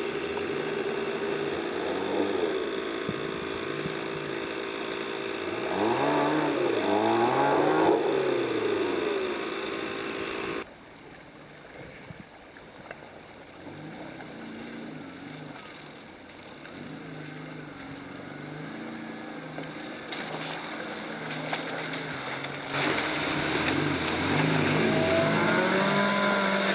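Off-road 4x4 engines working under load, revving up and down as the vehicles climb a slope and crawl through a rocky creek bed. The sound drops suddenly and goes quieter about ten seconds in, then turns loud again near the end, with more revving.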